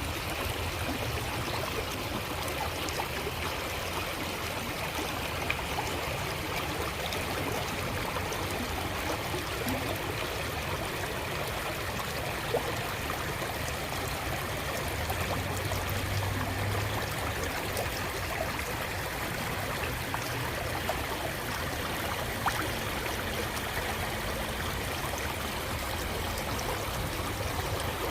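A creek flowing steadily over stones, an even rushing of water with small trickles and splashes.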